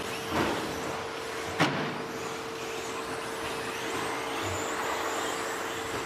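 Electric 1/10 2WD stadium trucks with 13.5-turn brushless motors racing on a dirt track: motor whine rising and falling in short sweeps as trucks pass, over a steady hum. There is a sharp knock about one and a half seconds in.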